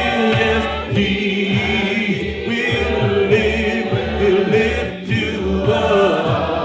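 Gospel music: a choir singing held notes over a steady, repeating low beat.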